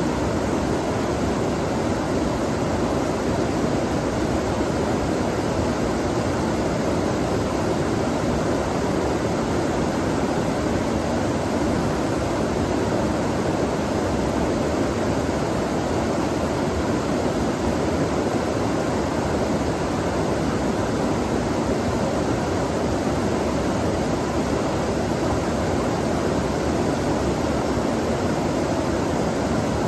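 Flowing water rushing steadily: an even, unbroken noise.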